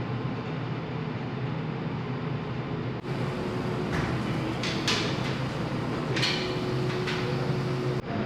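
Steady low hum of a large car ferry's engines and ventilation heard inside the ship, with a few sharp clinks in the middle.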